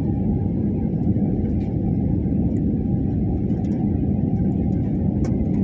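Steady low rumble inside an airliner's cabin: engine and airflow noise at an even level, with a few faint clicks.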